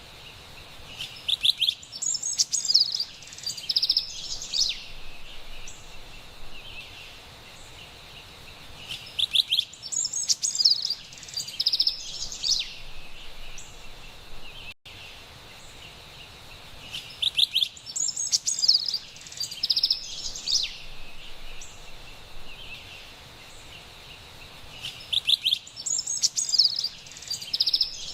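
Carolina wren singing: four bright song bouts of about three and a half seconds each, coming roughly every eight seconds, over a faint steady forest hiss.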